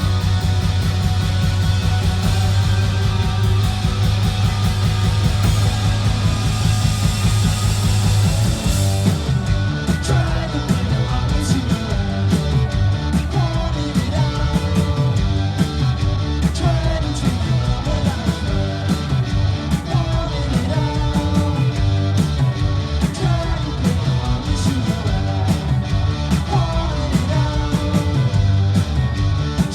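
Garage-punk band playing live on loud electric guitars, bass and drums. For the first nine seconds or so the music holds a sustained, fast-pulsing drone. Then it breaks into a steady drum-driven beat with singing over it.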